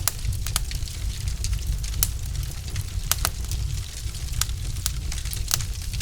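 Wood fire burning in a fireplace: frequent sharp crackles and pops from the burning logs, several louder snaps among them, over a steady low rumble.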